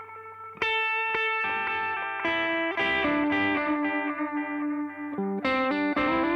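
Electric guitar played through a reverb and delay pedal. Two sharp strikes about a second in, then a melodic single-note line whose notes ring on into one another, with another picked attack near the end.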